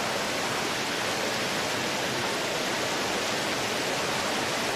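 Steady rushing of a fast mountain river, an even, unbroken wash of water noise.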